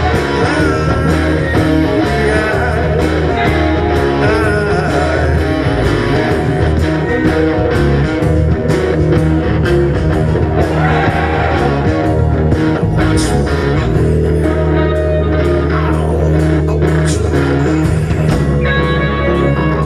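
Rock band playing an instrumental passage: guitar over a steady bass line and drums, with regular drum hits throughout.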